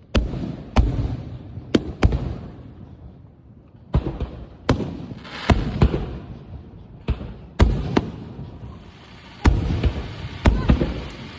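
Aerial firework shells bursting in quick, irregular succession: about fourteen sharp booms, each trailing off in a rumbling echo, with a hiss between the bursts.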